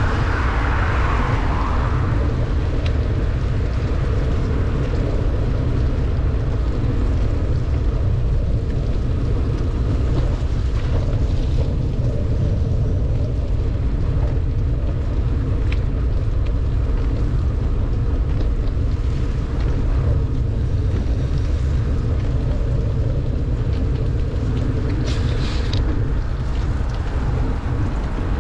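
Steady wind rumble on the microphone of a moving bicycle, with tyre and road noise on a wet road in heavy rain. A short hiss about 25 seconds in.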